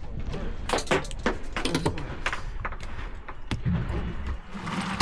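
Irregular clicks and knocks from rod-and-reel tackle being worked while fighting a fish, over a low steady rumble.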